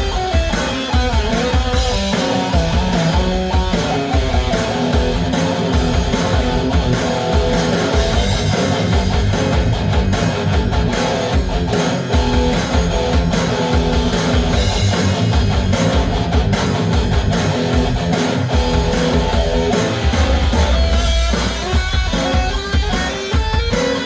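Electric guitar playing over a drum beat, the guitar run through effects such as delay and pitch shifting.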